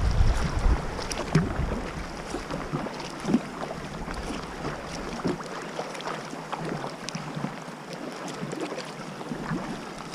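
Sea water splashing and dripping around a kayak, with many small irregular splashes. Wind buffets the microphone for the first couple of seconds, then eases.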